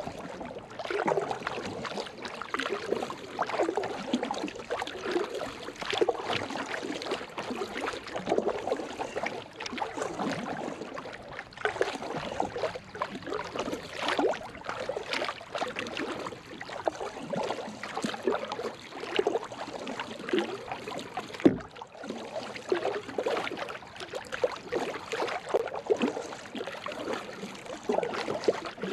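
Small waves lapping and slapping against the hull of a drifting Old Town Topwater 106 kayak, an uneven run of little splashes and gurgles, with one sharp knock about two-thirds of the way through.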